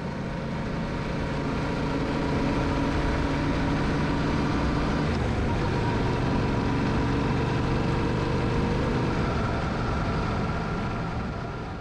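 Yamaha Ténéré motorcycle engine running while riding, with wind and road noise; the engine note shifts about halfway through.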